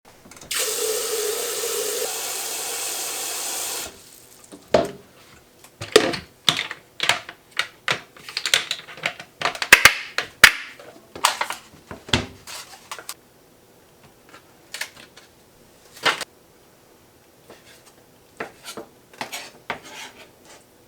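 Water running steadily for about three seconds and stopping suddenly, then a run of irregular clatters and knocks of things being handled, thinning out to a few scattered knocks.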